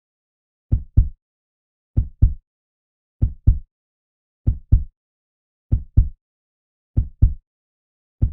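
A slow, steady heartbeat: low double thumps (lub-dub), about one beat every one and a quarter seconds.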